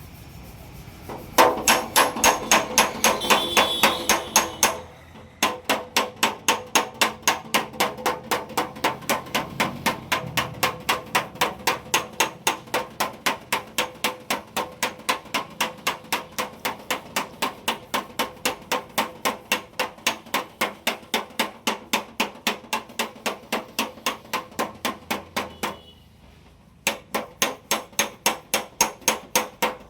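Hammer tapping out dents in a car's sheet-metal fender during body repair: a fast, even run of metallic strikes, about three a second, stopping briefly twice, about five seconds in and near the end.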